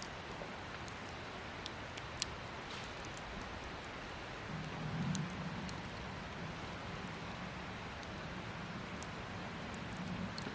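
Wood campfire burning: a steady hiss with scattered sharp crackles. A low hum joins about four and a half seconds in.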